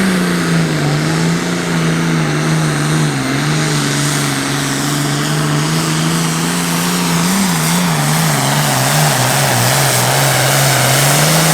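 Turbocharged diesel Super Farm pulling tractor running flat out at high, nearly steady revs during a sled pull; the engine note wavers and sags a little in the second half.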